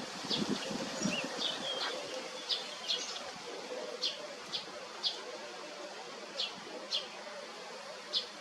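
Small birds chirping: short high chirps at irregular intervals, roughly one or two a second, over a faint steady hum and outdoor background noise. A low rumble sounds in the first second or two.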